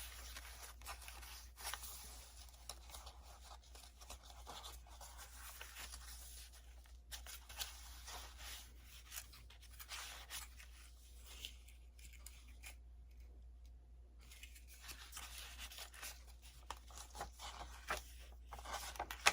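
Faint rustling and light taps of paper as the pages and a paper decoration of a handmade journal are handled and turned over, over a low steady hum.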